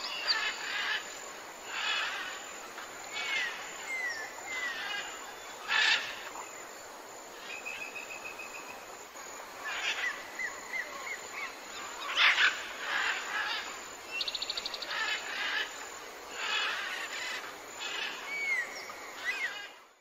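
Several wild songbirds calling over a steady outdoor hiss: short slurred whistled notes, chirps, a rapid trill about eight seconds in and a fast ticking series about fifteen seconds in.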